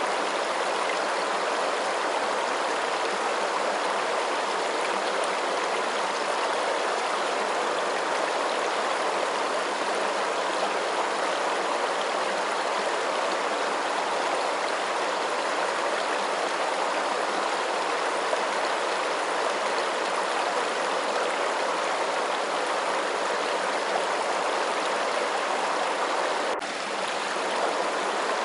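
Steady rushing water, an even hiss without a break, with a momentary drop in level a couple of seconds before the end.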